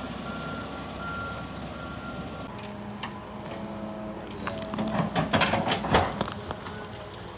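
Heavy earth-moving equipment running: a backup alarm beeps steadily for the first two or three seconds over a diesel engine, then the engine drones on while a run of metal clanks and knocks sounds about four to six seconds in.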